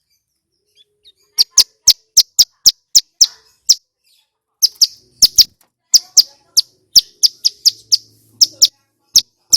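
Male ciblek gunung (a prinia) calling: loud, sharp, clipped high notes repeated at about three to four a second, in two runs with a short pause between them.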